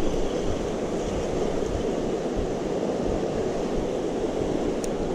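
Steady rush of water running over creek rapids.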